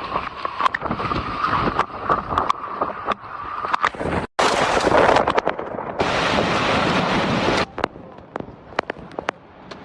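Hailstones striking hard surfaces in a storm as sharp, scattered cracks, over a steady rush of wind and rain. A steady high whistling tone runs through the first four seconds, and the sound changes abruptly several times where clips are spliced.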